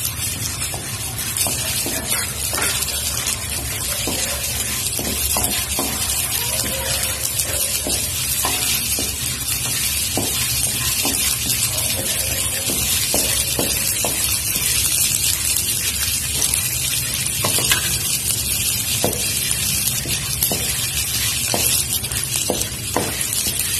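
Split chickpeas (chana dal) with garlic and dried red chillies frying in hot mustard oil in a kadhai, sizzling steadily. A wooden spatula stirring them knocks and scrapes against the pan now and then.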